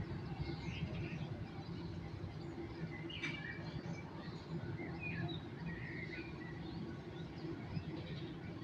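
Birds chirping with short, scattered calls over a steady low background hum of distant city noise.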